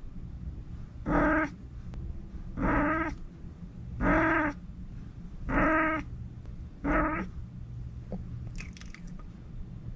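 Domestic cat making short trilling 'prrbbtt' calls, five of them about a second and a half apart, each about half a second long, over a steady low rumble.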